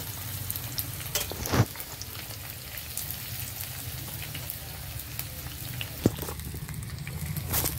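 Onion slices, green chilli slices and curry leaves sizzling steadily in hot oil in an iron kadai over a wood fire, with a few sharp clicks.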